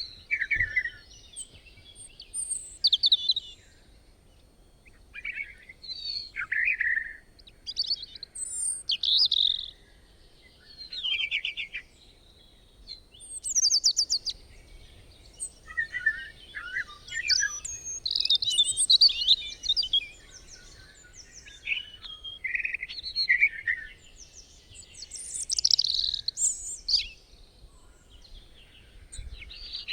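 Birds singing: short, varied chirping and whistled phrases every second or two, some overlapping, over a faint background hiss.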